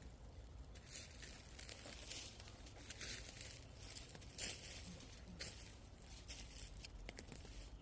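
Faint, irregular crunching and rustling of dry leaves and brush, a few sharper crackles among softer ones, as someone moves through undergrowth.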